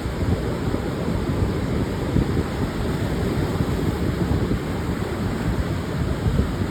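Pacific surf breaking on a sandy beach, a steady wash of waves with wind buffeting the microphone in low, gusty rumbles.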